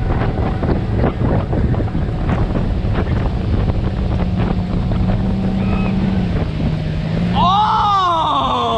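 Motorboat engine running steadily under way, with wind buffeting the microphone and rushing water. About seven seconds in, a loud high cry rises and then falls for over a second.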